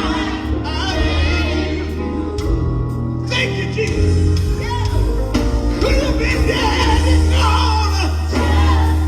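Live gospel music: singing over a band with a strong, sustained bass line.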